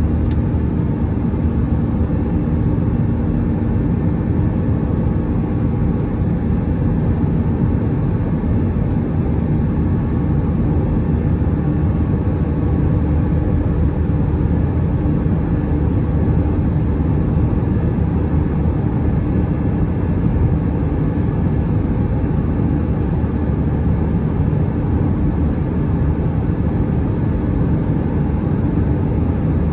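Airbus A320-211 with its CFM56 jet engines running, heard inside the passenger cabin as a steady, loud rumble and rush of noise that does not rise or fall.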